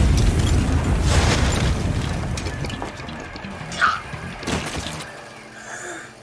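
Anime fight-scene soundtrack: music with a heavy low rumble and booming, crashing impacts, two sharp hits a little past the middle, then dying away over the last second.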